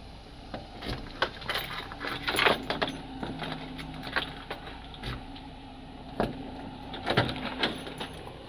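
Scattered knocks and clicks of a front door being unlocked, opened and closed as someone walks into a house, with a faint steady hum underneath.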